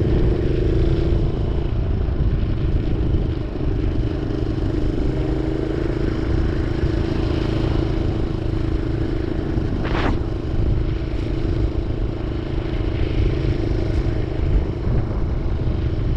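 Minibike engine running steadily under way at a fairly even pitch over a low rumble, with one sharp click about ten seconds in.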